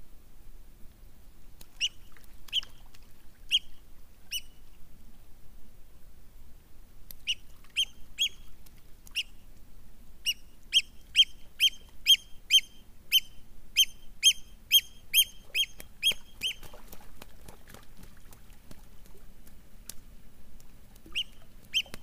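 A small bird's short, high-pitched calls, repeated: a few single calls, then a quick run of about three a second in the middle, and two more near the end.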